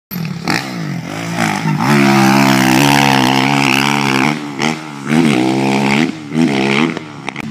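Motocross dirt bike engine revving, its pitch rising and falling. It holds high from about two to four seconds in, then goes through several shorter rev-ups and drops.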